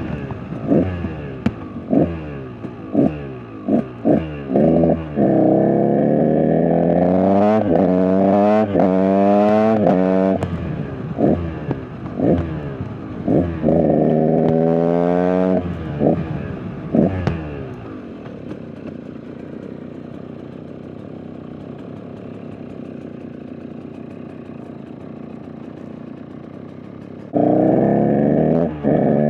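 KTM EXC 125 single-cylinder two-stroke dirt bike engine being ridden, in a bike the owner says is not running great. It gives a string of short throttle blips, then two longer pulls where the revs climb and drop through gear changes. About ten seconds of low, steady running follows before it is suddenly loud again near the end.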